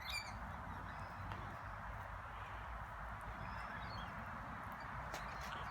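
Faint, steady background hiss with a few brief, high bird chirps, at the very start and again about four seconds in.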